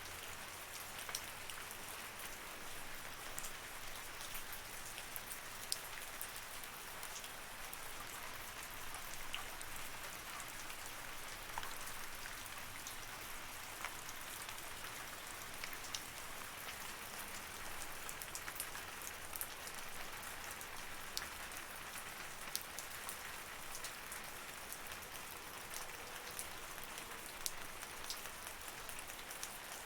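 Steady rain falling, an even hiss with many sharp drip ticks scattered through it.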